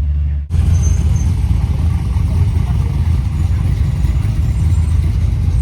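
A car running with a steady low rumble, cutting in abruptly about half a second in.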